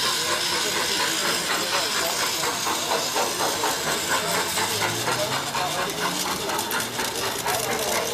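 Garden-railway model train running: a steady hiss, with a low motor hum that rises in pitch partway through and quick ticking of wheels on the track in the second half.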